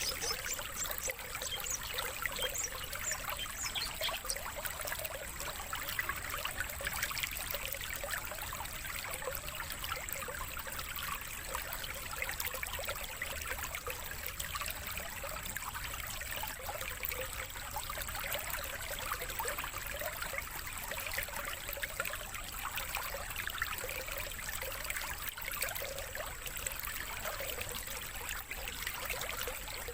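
Water trickling and running steadily, with short high chirps scattered through it, most of them in the first few seconds, over a thin steady high tone.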